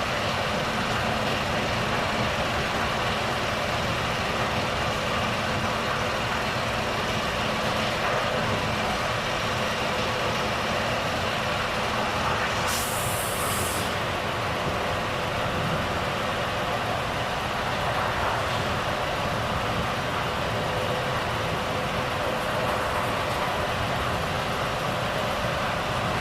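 Volvo FH truck's diesel engine running steadily with road noise, and a short hiss of air from the brake system about halfway through.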